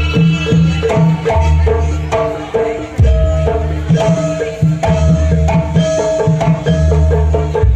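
Jaranan dance music from a Javanese percussion ensemble: kendang hand drums beating deep strokes under a quick melody of short pitched notes.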